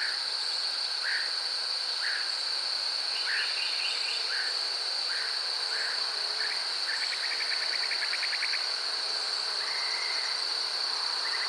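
Steady, high-pitched insect chorus with a bird repeating short chirps about once a second and giving one quick trill about two-thirds of the way through.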